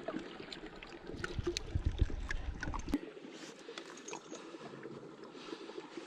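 Footsteps crunching and squelching through wet snow and slush, with a dragged sled scraping along. Many small irregular crunches and knocks for about three seconds, then a fainter, steadier rustle.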